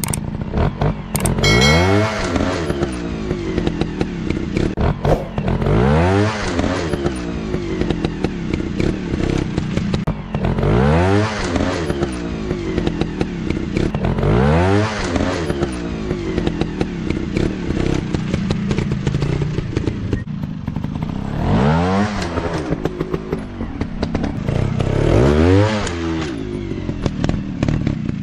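Dirt-bike engines revving hard, rising in pitch in repeated sweeps about six times, with clattering and scraping between the revs.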